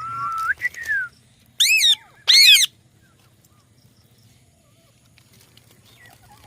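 Indian ringneck parakeet giving two loud, harsh calls about two seconds in, each with an arching rise and fall in pitch, after a short gliding whistle at the start.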